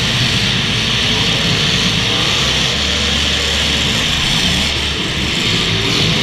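Demolition derby cars' engines running loudly and revving up and down, under a steady wash of noise.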